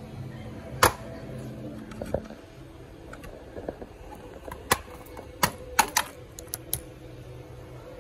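Scattered sharp clicks and taps of small hard parts being handled during a laptop repair: one loud click just under a second in, then a quick run of clicks about two thirds of the way through, over a low hum that stops early on.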